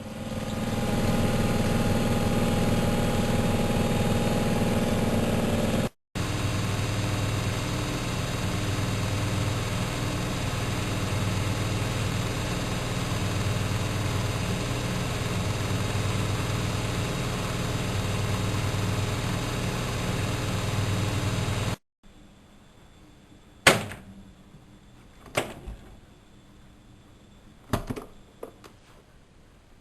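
Miele Novotronic W120 washing machine running with a loud, steady hum. The sound builds up over the first second and is broken by a cut. Near the end a few sharp clicks sound over quiet.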